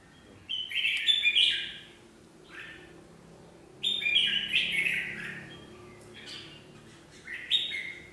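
Red-whiskered bulbuls calling in three loud bursts of quick, chattering phrases, their territorial singing in a contest between caged birds.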